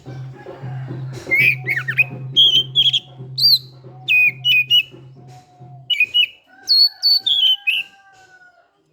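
Oriental magpie-robin singing loud, sharp phrases of varied whistled and chirped notes, with a long, smoother whistle near the end. Background music with a steady beat runs underneath and drops out about six seconds in.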